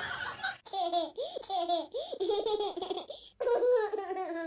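Laughter: a quick run of short vocal bursts that rise and fall in pitch, with a brief break about three seconds in.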